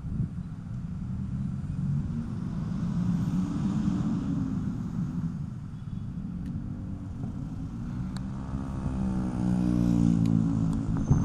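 Motor vehicle engine running close by in street traffic, growing louder with a rising pitch near the end as a vehicle passes or pulls away.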